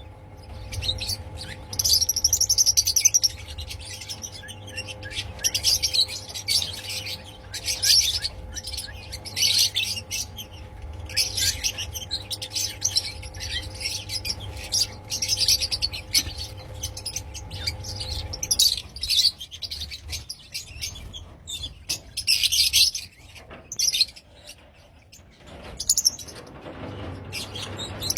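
A flock of caged Fischer's lovebirds chirping, shrill calls coming in quick clusters throughout. A faint steady hum underneath stops about two-thirds of the way through.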